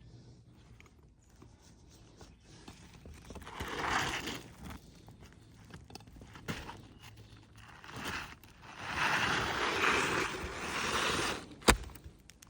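Scraping and rustling on an asphalt-shingle roof, in two stretches, a short one and a longer one, with a single sharp click near the end.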